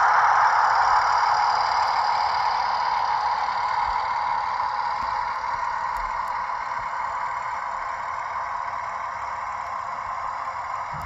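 HO-scale model train running on the track: a steady whirr of the locomotive and wheels on the rails that fades gradually as the train moves away.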